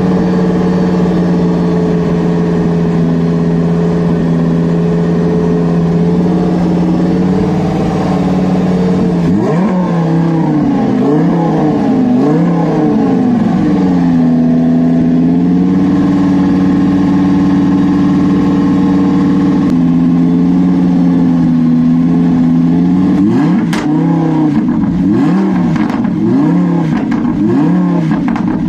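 A tuned car's engine revving in place, loud. It holds steady at a raised idle, then is blipped several times with the pitch rising and falling. It settles again and ends with a fast run of short blips.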